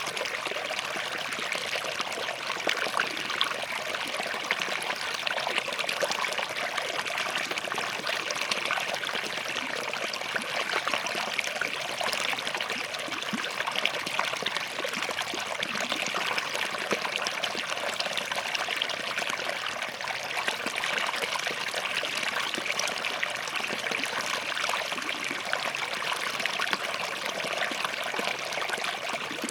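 Small forest stream running steadily over and between rocks, an even rushing with constant fine trickling and splashing.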